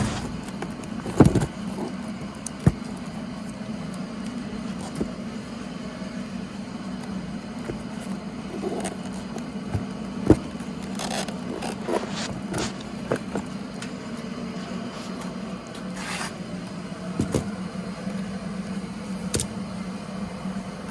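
Scattered sharp clicks, knocks and short scrapes of hands and tools at work on a motorcycle, over a steady low hum. The loudest knock comes about a second in.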